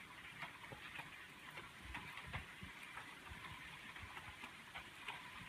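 Rain falling steadily, an even hiss with many irregular drops tapping through it.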